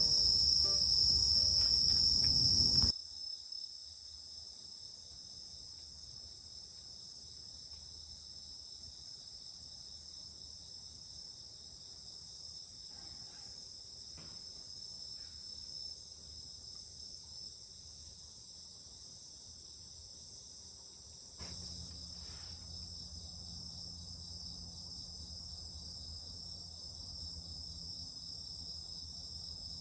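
Crickets chirring in a steady, continuous high chorus. For the first three seconds louder low sounds and clicks lie over it, then stop abruptly; a faint low hum joins later on.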